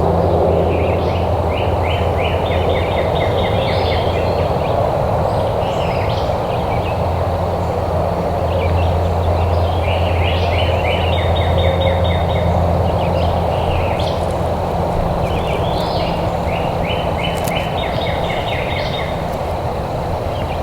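Songbirds singing rapid trills of repeated chirping notes, several times over, above a steady low rumble.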